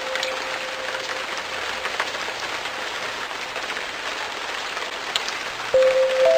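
Steady rain falling on a surface, with scattered individual drops. A held music note fades out in the first second, and music comes back in louder near the end.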